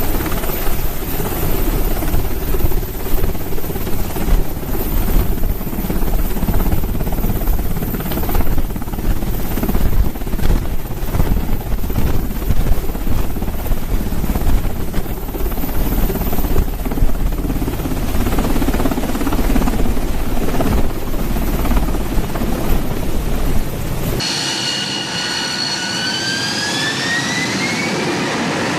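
Helicopter in flight, its rotor beating rapidly under loud engine noise. About four seconds before the end, the sound changes abruptly to a steadier rushing noise with a whine rising in pitch.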